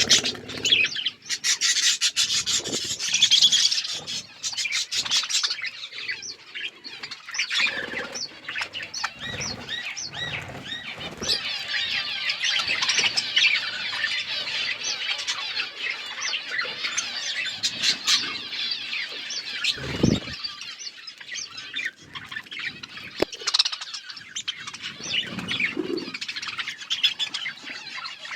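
A flock of budgerigars chirping and chattering without pause, with a burst of sharp clicks in the first few seconds and a single low thump about twenty seconds in.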